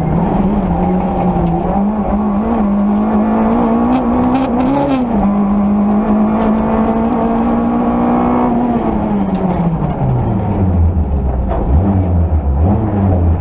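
Peugeot 205 Rallye rally car's engine heard from inside the cabin, pulling at high revs with small rises and dips. A little under 9 seconds in, the revs fall away and it runs on at a much lower, deeper note.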